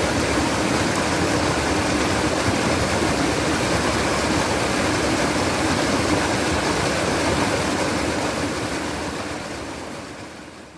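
Flowing stream water, a steady rushing and trickling, fading out near the end.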